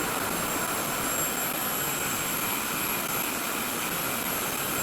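RevAir reverse-air hair dryer running steadily on low heat, its suction fan giving an even rush of air with a thin, constant high whine.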